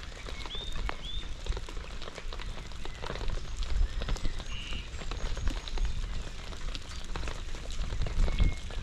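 Steady rain with many close drops ticking over a low rumble, and a small bird chirping twice about half a second in.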